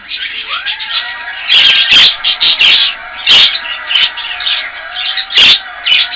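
Budgerigar chattering and warbling, with short whistled glides and several loud, sharp chirps.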